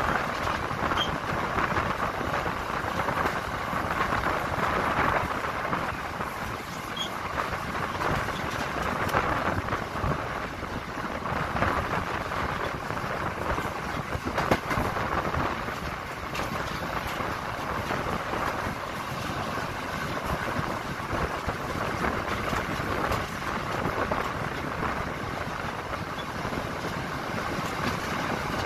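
Passenger train running along the track, heard from on board: a steady rumbling rush of noise with occasional faint clicks.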